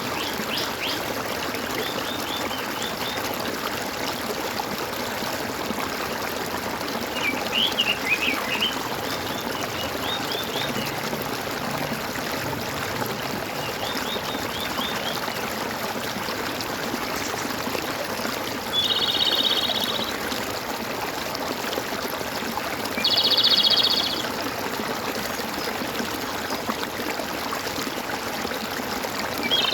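Water trickling and gurgling steadily, with birds chirping now and then: scattered short chirps, a louder flurry of chirps about eight seconds in, and three short trilled calls of about a second each in the second half.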